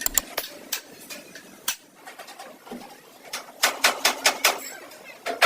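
Sharp knocks and clicks in short irregular clusters, with a quick run of about five strikes a little past the middle.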